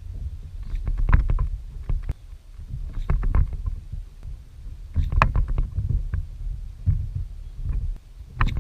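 Water slapping and knocking against a fishing kayak's hull in clusters about every two seconds, over a low rumble of strong wind on the microphone.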